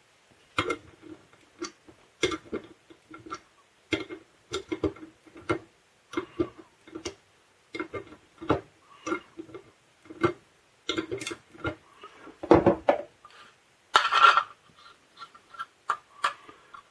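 Hard plastic clicks and knocks of a tape gun dispenser and its parts being handled, irregular and several a second, with a brief louder rasp near the end.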